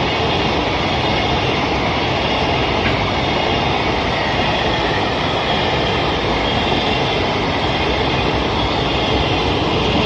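Container freight train rolling past at speed: a steady, loud rush of wheels on rail from the passing wagons.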